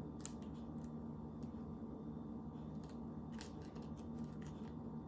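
Faint scattered clicks and light rustles of hands handling a plastic icing bag and gingerbread pieces, with a small cluster of clicks about three and a half seconds in, over a low steady room hum.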